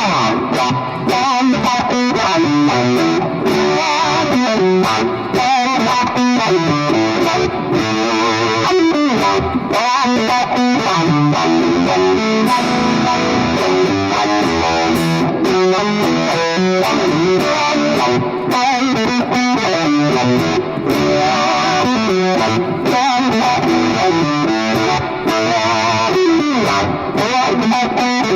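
Distorted electric guitar playing a continuous riff, loud and steady, with notes changing in a running rhythm.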